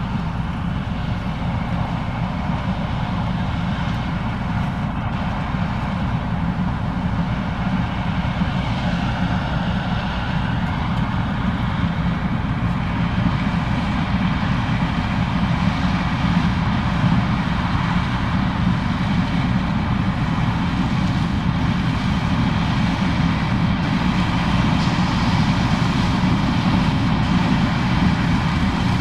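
Case IH 2366 combine running steadily while harvesting corn: a continuous heavy engine and machinery drone that grows slightly louder over the stretch.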